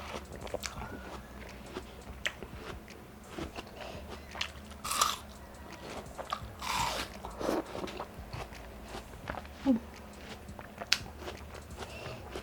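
A person biting into and chewing slices of raw watermelon: wet crunches and mouth clicks, with a couple of louder bites around the middle.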